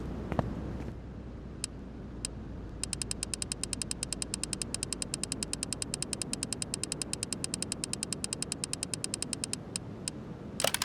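Rapid, even mechanical clicking, about ten clicks a second for several seconds, over a low steady rumble.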